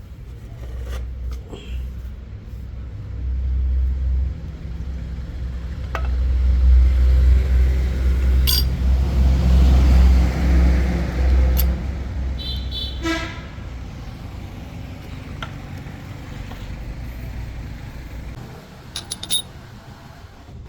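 A low vehicle-like rumble that swells and is loudest in the middle, with scattered metallic clicks and clinks.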